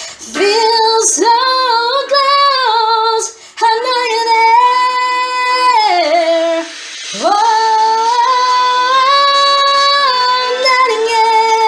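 A woman singing long held notes, sliding in pitch between them, in three phrases with short breaks.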